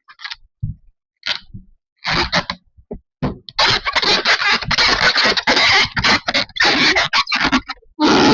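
Scraping and rubbing noises: a few short scrapes at first, then a dense run of rapid, stop-start scraping from about three and a half seconds in.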